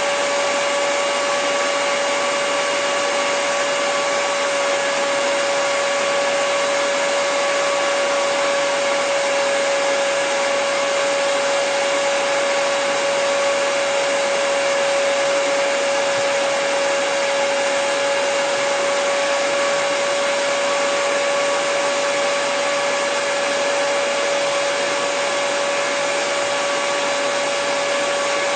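Hair dryer running steadily: an even rush of blown air with a constant whine from its fan motor.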